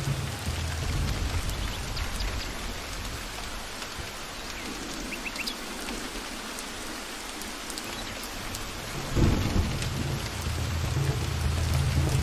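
Steady rain falling in a forest, with low thunder rumbling that dies away a few seconds in and comes back with a sudden loud clap about nine seconds in.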